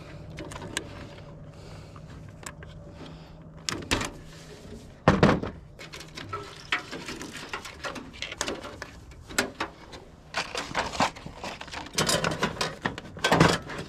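Scattered metallic clicks, clanks and knocks of a water heater being pulled apart by hand for scrap, with the loudest knock about five seconds in and a busy run of clatter near the end. A faint low hum sits underneath for the first few seconds.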